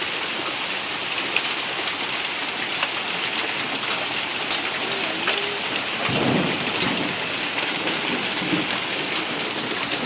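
Small hail and rain pelting down steadily, with a dense patter of sharp hailstone ticks. A low rumble comes in about six seconds in.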